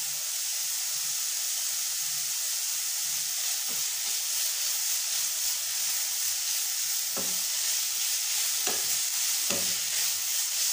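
Grated beetroot frying in ghee in a nonstick pan: a steady sizzle, with a spatula stirring and scraping through it. A few sharper scrapes stand out in the second half.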